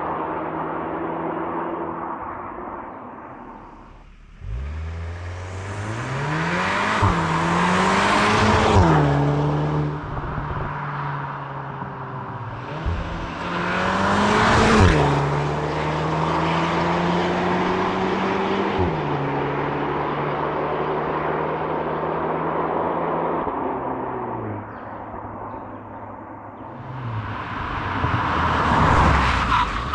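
Cupra Formentor VZx's 2.0-litre turbo four-cylinder with the Akrapovic exhaust accelerating hard. The engine note climbs and drops back sharply at quick dual-clutch upshifts in two bursts, holds a steady note, then eases off before another loud surge near the end.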